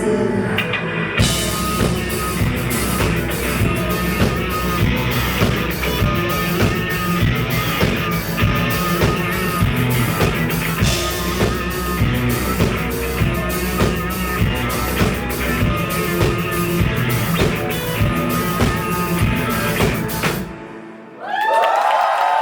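Live rock band with drum kit and guitars playing the song's instrumental outro, ending abruptly about 20 seconds in. An audience then bursts into cheering and whoops.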